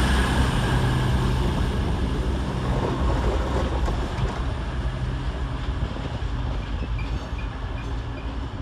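A diesel train's engines running in a steady low drone that gradually fades as the train moves away.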